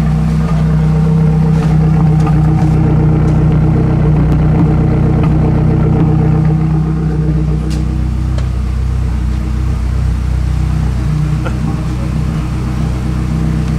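Freshly built 2008 Mazdaspeed 3's turbocharged 2.3-litre four-cylinder engine idling steadily through a turbo-back exhaust on its first start-up. The idle note shifts a little about halfway through.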